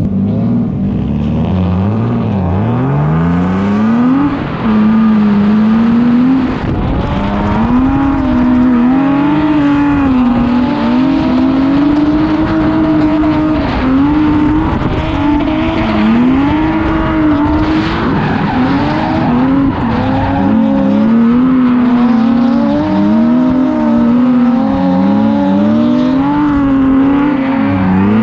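Drift car engine revving hard, its pitch climbing over the first few seconds and then held high with repeated dips and rises as the throttle is worked, with tyres squealing.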